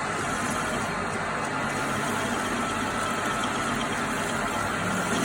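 Metal lathe running steadily while a bush is being machined, an even mechanical noise with a faint steady tone.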